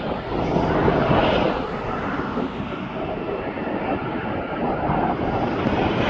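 Airplane engine noise, a steady loud rush that swells slightly about a second in.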